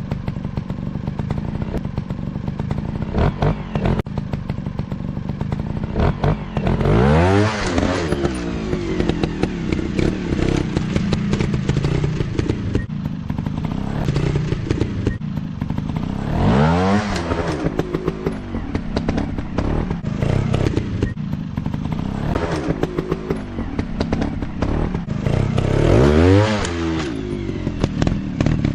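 Off-road dirt bike engine running and revving, with three big rises and falls in pitch about nine seconds apart, amid a steady run of clattering knocks.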